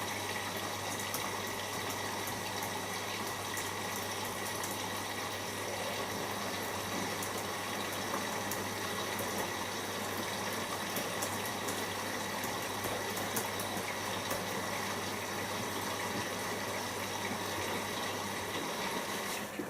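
Siemens iQ washing machine filling with water at the start of its first rinse: steady rushing of water into the drum over a low hum. The hum stops near the end and the water sound eases off just after.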